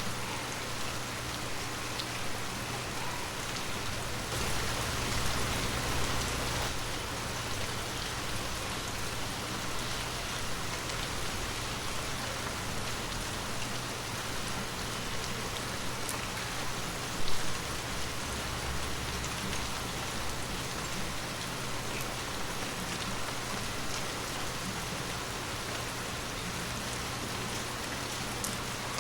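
Steady heavy rain falling, with a louder swell of rain about five seconds in and a single brief, sharp louder hit about seventeen seconds in.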